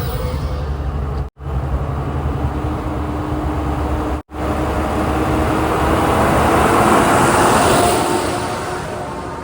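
Heavy diesel vehicle engine running with a pulsing low rumble, cut by two brief dropouts; in the second half a louder rushing sound swells and then fades.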